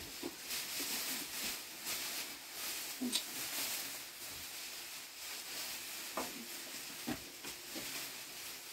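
Steady hiss of falling rain, with a few faint brief sounds over it.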